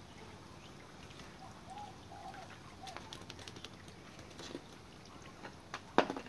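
Faint bird calls, a few short notes, followed by a scattered run of sharp clicks and knocks, with the loudest knock near the end.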